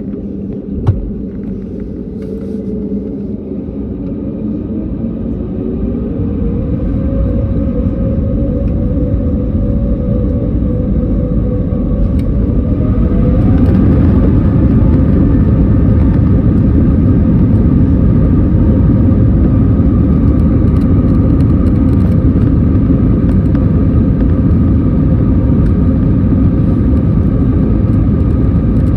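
Jet airliner's engines spooling up to takeoff power: a whine rises in pitch and the rumble grows louder over the first dozen seconds or so, then holds as a steady loud rumble. A single sharp click about a second in.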